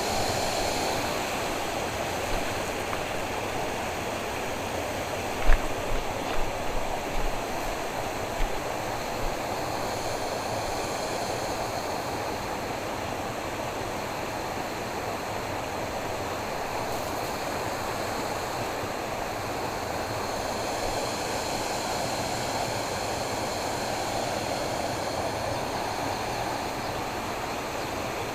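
Steady rush of flowing stream water. A few dull low bumps come about five to nine seconds in.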